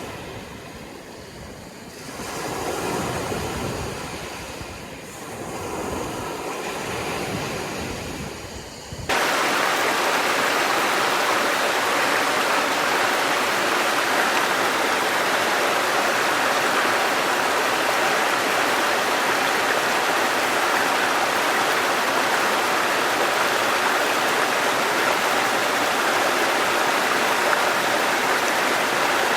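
Sea waves washing in, swelling and ebbing twice. About nine seconds in, the sound cuts abruptly to a steady, even rush of running water, like a stream or waterfall.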